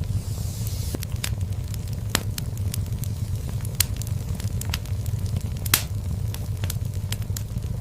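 Fire crackling in a fireplace: irregular sharp pops and snaps over a steady low rumble of flames, with a brief hiss near the start and two louder pops, about four and six seconds in.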